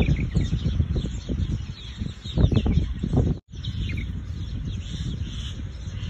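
Small birds chirping over a steady low rumbling noise that swells louder between about two and three seconds in. The sound cuts out for an instant just past the halfway point.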